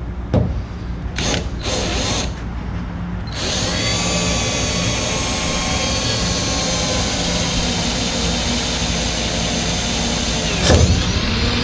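Electric drill boring a hole through a painted trunk filler panel, run gently: a few short trigger pulls, then a steady run of about eight seconds, with a sharp knock near the end.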